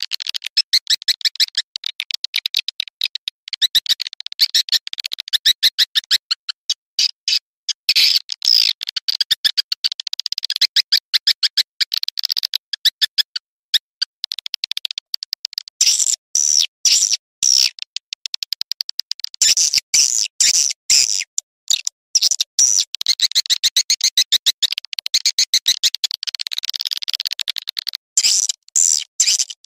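Recorded swiftlet calls played as a lure sound for swiftlet farming: dense, rapid, high-pitched twittering chirps, with a short lull about halfway through.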